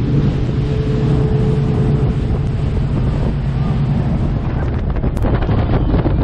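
Jet boat engine running with a steady low drone, with wind buffeting the microphone, rougher from about four seconds in.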